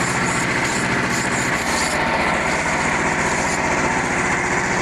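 Frontier OS-27 band sawmill running, its small gas engine driving the blade through a maple log in a steady even pulse. The engine note shifts slightly about two seconds in.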